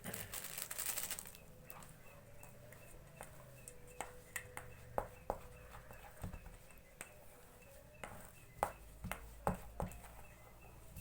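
Fishing bait dough being worked by hand in a bowl: a short rustling rush in the first second as the rest of the ingredient goes in, then soft irregular taps and clicks of mixing.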